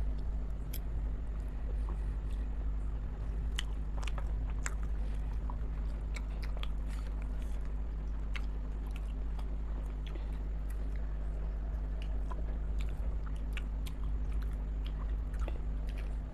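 A person biting and chewing chicken momos, with scattered small wet clicks of mouth sounds throughout, over a steady low hum.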